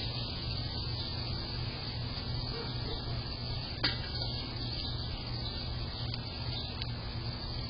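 Steady background noise with a constant low hum, and one sharp click about four seconds in.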